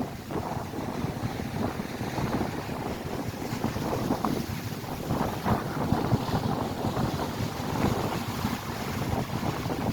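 Strong gusty wind buffeting the microphone over lake waves breaking on the shore.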